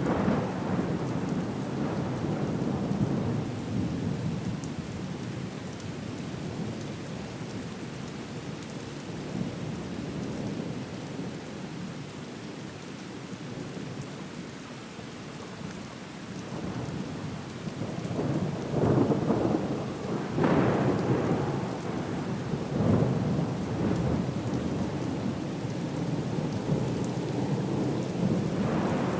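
Storm ambience: steady rain with thunder underneath, and several louder surges of thunder or crashing noise about two-thirds of the way through.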